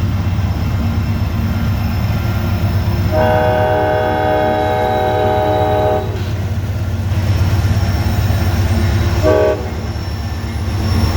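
GE Evolution-series diesel locomotives on a loaded coal train labouring upgrade under heavy load, with a steady low engine drone; one unit is offline, so the rest are struggling. The locomotive horn sounds for about three seconds a few seconds in, then gives a short blip near the end.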